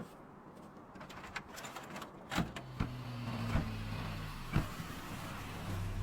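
Scattered light clicks, then a low steady mechanical hum that starts about two and a half seconds in, broken by a few sharp knocks, and grows louder near the end.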